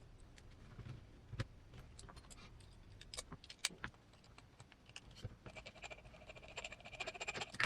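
Small metal parts of an RC crawler's aluminium portal axle being handled during assembly: scattered light clicks and taps, then a brief jingling rattle of metal on metal in the last couple of seconds.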